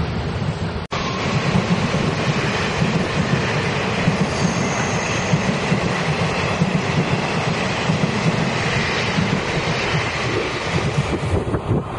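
Locomotive-hauled Chu-Kuang express coaches rolling past close by: a steady, loud rumble of wheels on the rails. The sound drops out for an instant about a second in.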